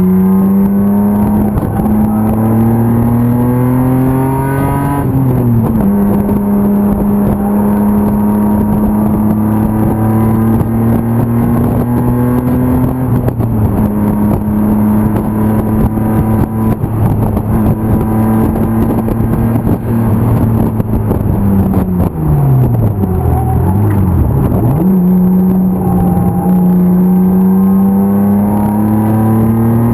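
BMW M50 inline-six engine in a racing E36 325 under load on track. Its note climbs under acceleration and drops sharply at an upshift about five seconds in. It holds fairly steady and steps down again near the middle. About two-thirds of the way through the revs dip low and come back up, then climb again near the end.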